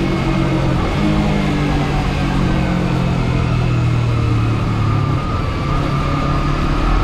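Motorcycle engine running steadily at road speed with wind rush, recorded through a GoPro Hero 8's foam case that damps much of the wind noise. The engine pitch shifts slightly now and then.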